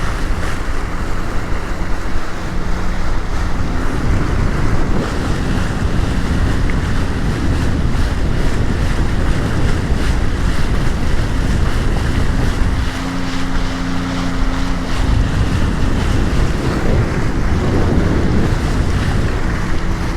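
Strong wind buffeting the microphone and waves washing against a Sea-Doo personal watercraft trolling slowly through heavy swells. A low engine hum comes through faintly now and then.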